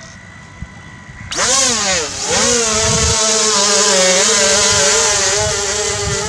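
The brushless motors of an XK X450 Aviator RC VTOL plane spooling up: a faint steady whine, then about a second in a sudden rise to a loud high-pitched whine, which dips briefly as the throttle is eased and then holds steady with slight wavers.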